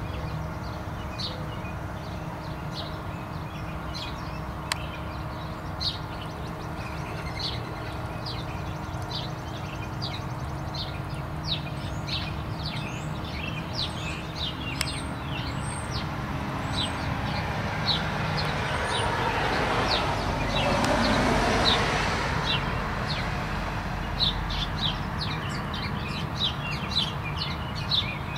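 Small birds chirping, short high chirps repeating every second or so, over a steady low hum. About two-thirds of the way in, a car passes along the street, its noise swelling and fading over a few seconds.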